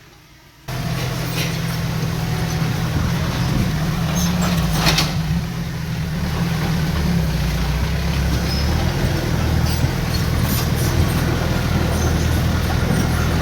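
Heavy earthmoving machine's diesel engine running steadily with a low drone, cutting in abruptly under a second in. There is a sharp knock about five seconds in.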